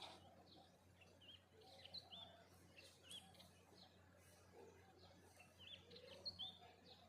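Songbirds chirping faintly in short, quick notes that sweep up and down in pitch, scattered throughout, over a faint steady low hum.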